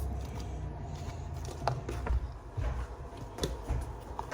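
Light kitchen handling sounds while preparing food: a few short, separate clicks and knocks, mostly in the second half, over a low background rumble.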